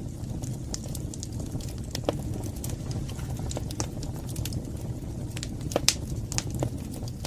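Wood fire burning in a fireplace: a steady low rumble of flames with scattered crackles and pops. The loudest pop comes a little before six seconds in.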